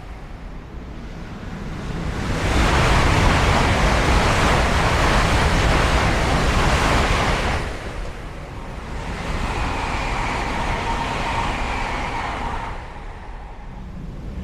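High-speed electric multiple-unit train passing at speed: a loud rush of air and wheel noise swells about two seconds in and fades after five seconds. A second, quieter rush follows with a steady whine through its middle.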